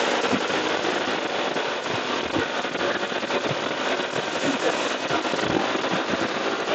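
Steady crackling rush of noise on a riding motorcyclist's microphone, with no tones or speech in it.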